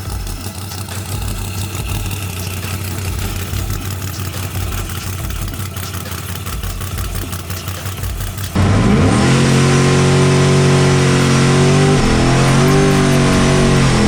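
Lower, noisy drag-strip sound with a steady low hum, then, about eight and a half seconds in, a loud race-car engine at high revs cuts in. Its pitch climbs, wavers and falls away near the end.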